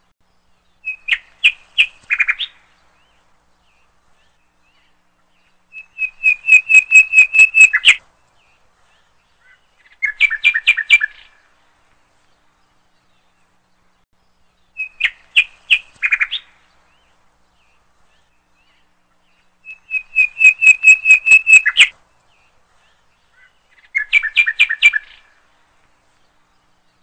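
Bird song in short phrases of rapid chirps, six phrases a few seconds apart with silence between them. The same three phrases come round again after about fourteen seconds.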